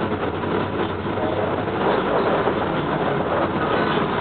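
Steady running noise of a train in motion, heard from inside a passenger car.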